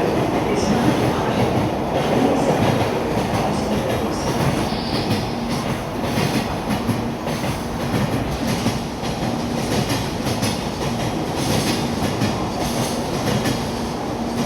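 N700A Shinkansen train pulling out of the platform and rolling past at low speed, a continuous rumble of the moving carriages with a faint steady hum joining about five seconds in.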